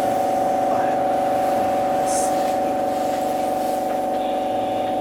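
Tokyo Monorail train's steady electrical hum at a constant pitch, over a light background rush.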